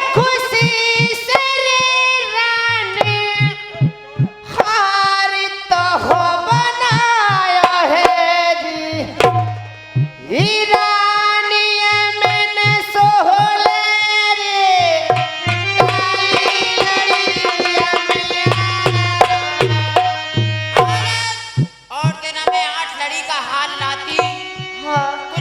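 Dhola folk music: a melody that glides and bends over rapid hand-drum strokes.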